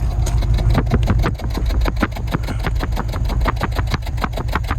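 BMW N62 4.4-litre V8 idling, heard at the exhaust as a steady low rumble with a fast, even run of pulses. It has a misfire on cylinders 6 and 8 (codes P0306 and P0308).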